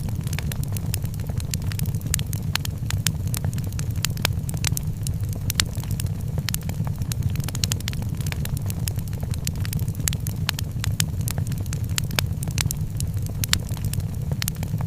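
Wood fire crackling in a fireplace, with many quick sharp pops over a steady low rumble.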